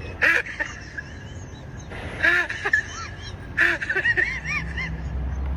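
A kitten mewing several times in short, rising-and-falling mews, with a few short sharp noises in between.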